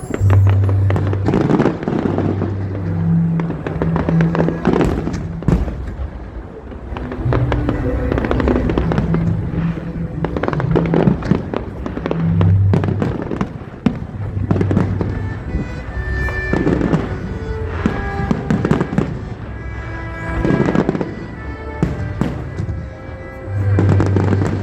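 Fireworks bursting one after another throughout, over music with deep held bass notes.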